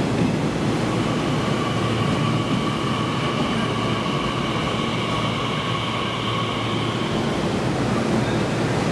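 A Nishitetsu commuter train running on a nearby track, heard over a steady rumble, with a steady high-pitched whine that sets in about a second in and fades out near the end.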